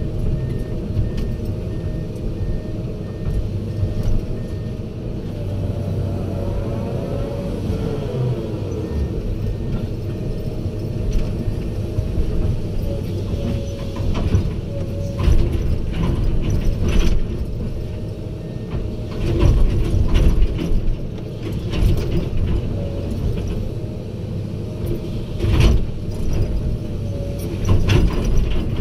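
Excavator at work loading dump trucks: its diesel engine runs with a low rumble and a steady hydraulic whine, while metallic clanks and knocks come at irregular intervals, more often in the second half.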